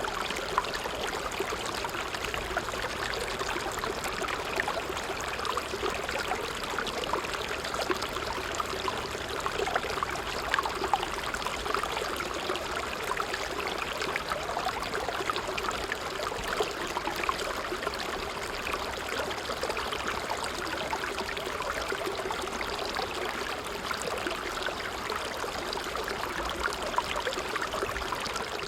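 A creek running steadily: continuous babbling water with many fine, rapid gurgles.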